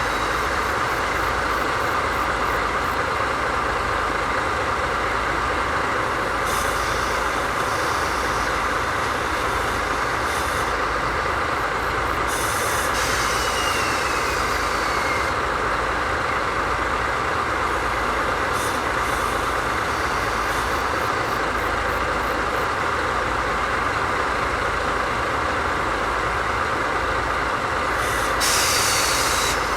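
Diesel engines of a DD51 diesel-hydraulic locomotive running steadily at idle, with a low pulsing throb. Short hisses of compressed air come and go several times, the loudest near the end.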